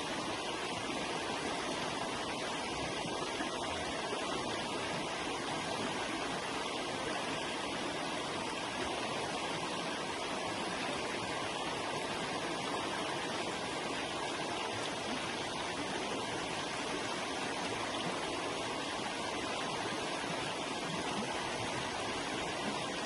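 River water flowing steadily, a constant rushing wash with no breaks.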